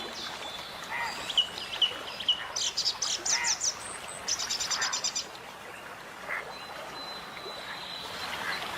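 Birdsong: small birds chirping and whistling, with a run of quick trills in the middle.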